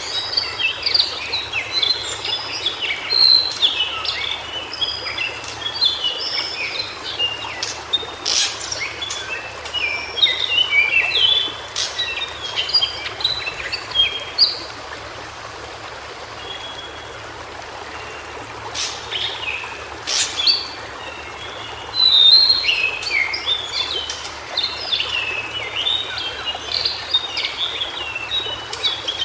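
White-browed shortwing singing: quick, jumbled phrases of high notes, breaking off for several seconds midway and then starting again. A few sharp clicks sound over a steady background hiss.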